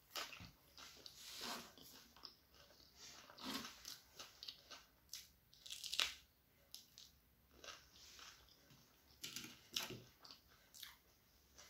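Quiet close-up chewing and crunching of egg devil and raw onion: irregular crisp bites and mouth sounds, the loudest crunch about six seconds in.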